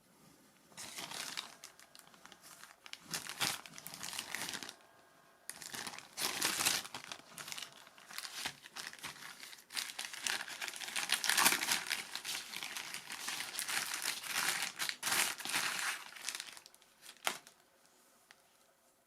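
Plastic packaging crinkling and rustling in irregular bursts as it is handled and opened, with one sharp click near the end.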